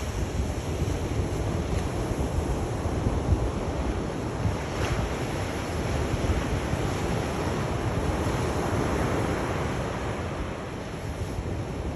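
Sea waves surging and washing onto a shore: a continuous rushing with a deep low rumble, swelling and easing slowly.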